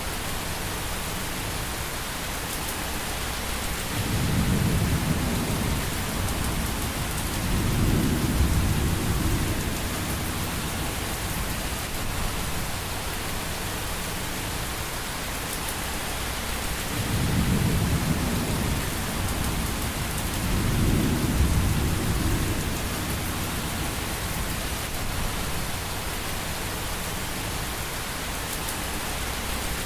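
Steady rain with four low rolls of thunder, each lasting a couple of seconds.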